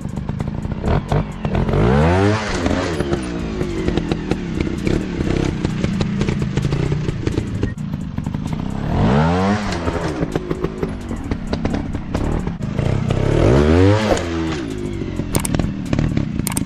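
Dirt bike engines revving hard three times, the pitch climbing and dropping each time, over the running of engines at lower revs. There is a scattering of clattering clicks throughout.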